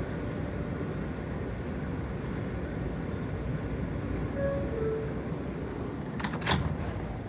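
New York City subway L train setting off from the platform after its doors close: a steady low rumble of the cars, with a brief sharp metallic clank about six seconds in.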